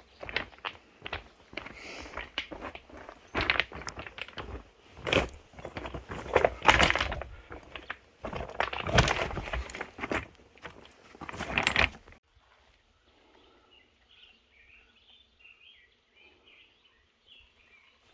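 Scrambling over rock: footsteps, scrapes and knocks close to a handheld camera, loud and uneven. After about twelve seconds this stops and only faint bird chirps are left.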